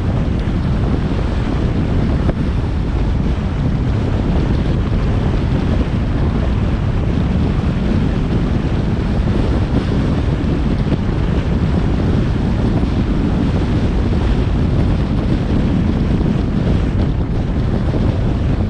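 Steady driving noise from a moving car: a low rumble of road and wind noise, with wind buffeting the microphone.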